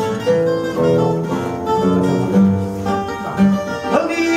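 Portuguese guitar and fado viola (classical guitar) playing an instrumental passage of quick plucked notes between sung lines of a fado.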